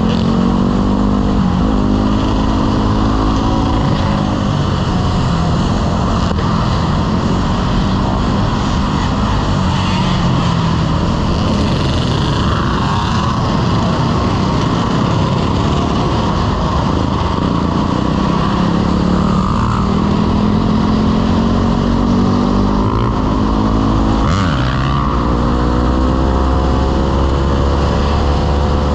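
Motorcycle engine running on the move, its pitch rising and falling again and again as the throttle is opened and closed, over a steady low rumble.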